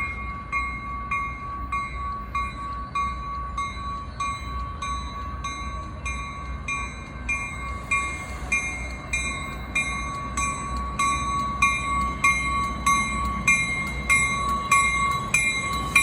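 Railroad warning bell ringing steadily at about three strikes a second, over a low rumble from the train.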